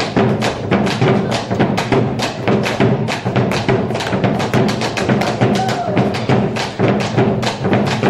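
Argentine folk music played live, with a quick, even drumbeat of about four or five strokes a second under sustained instrumental tones.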